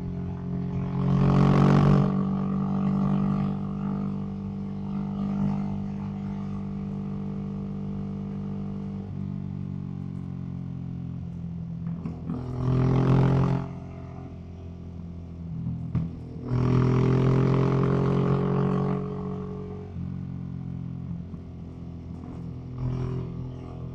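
Ducati SuperSport S's L-twin engine through a Termignoni aftermarket exhaust, heard from the rider's seat while cruising. The note swells louder and rougher three times: about a second in, around the middle, and for a couple of seconds after that.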